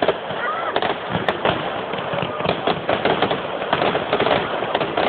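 Fireworks display: shells bursting in a dense, unbroken run of rapid pops and crackles.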